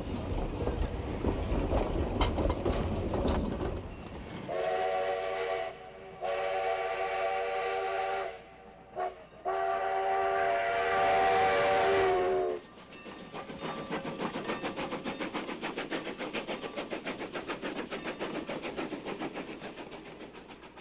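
Steam locomotive passing: a rumbling run, then its chime whistle sounding several notes at once in a long, long, short, long pattern, the standard grade-crossing signal. After the whistle, the wheels click rapidly and evenly over the rail joints.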